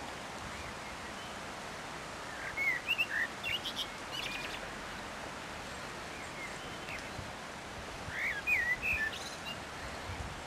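Small songbirds chirping in two short bursts of quick rising and falling notes, about two and a half seconds in and again about eight seconds in, over a steady outdoor hiss.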